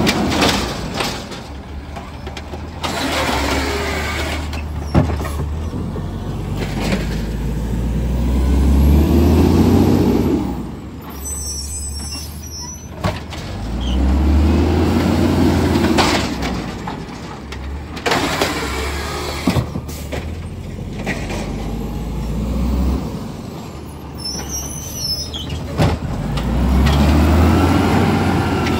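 A garbage truck at work: its diesel engine revs up and settles back several times, each rev with a rising and falling whine. Sharp knocks and clanks come between the revs.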